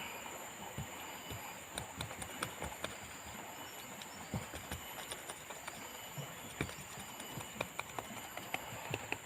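Irregular light knocks and clicks, a few a second, over a steady background hiss.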